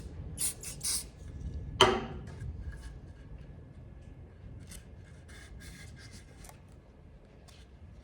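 Short scratchy rubbing and rustling strokes from hands working a sheet of birch-bark veneer, with one sharp knock about two seconds in, then lighter scattered rustles.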